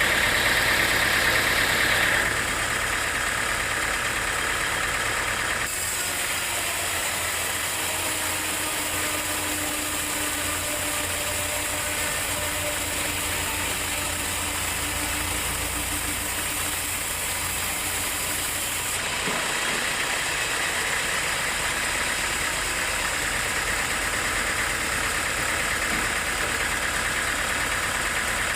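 Sawmill machinery running steadily, a little louder for the first two seconds, with a higher hiss added from about six seconds in until about nineteen seconds.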